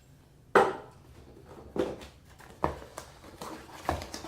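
New faucet parts and packaging being handled: a sharp knock about half a second in, then three more knocks spaced about a second apart, with rustling between.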